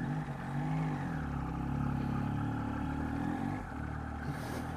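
Motorcycle engine running, heard through a microphone inside the rider's helmet; its pitch rises and falls a few times in the first couple of seconds, then holds steadier.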